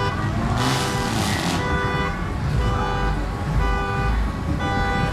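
A car's multi-tone musical horn sounding a series of held notes, each about half a second long with short gaps between, over the low rumble of engines. A brief hiss comes about a second in.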